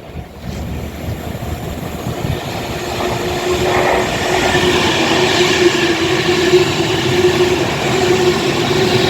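Avanti West Coast Class 390 Pendolino electric train approaching, its noise building steadily louder, with a steady whine from about a third of the way in.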